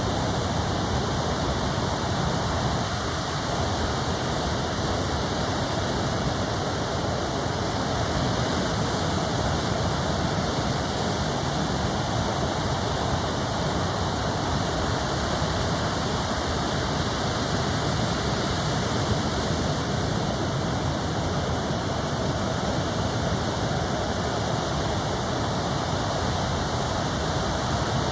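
Steady roar of ocean surf after a typhoon, an even wash of noise without separate wave crashes.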